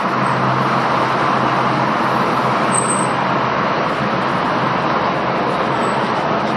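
Steady road traffic noise from a busy street: cars passing in a continuous wash of sound.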